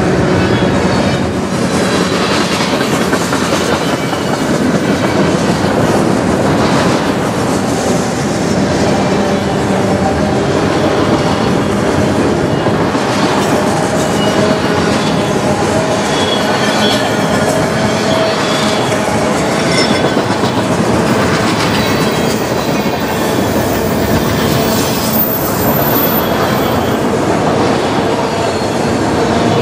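Autorack cars of a freight train rolling past close by at speed: a loud, steady rumble of steel wheels on rail, with clicks over the rail joints and faint thin wheel squeals now and then.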